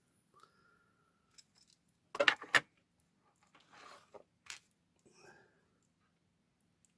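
Small tools and parts being handled on a hobby workbench: a few light clicks and rattles, the loudest cluster about two seconds in, with softer scuffs after it.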